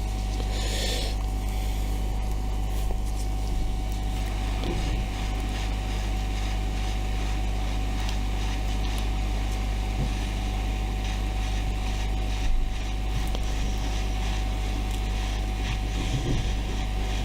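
Heat gun running steadily: its fan blowing with a low hum and a thin steady whine, warming the tablet's glass to soften the adhesive. A few faint clicks sound through it.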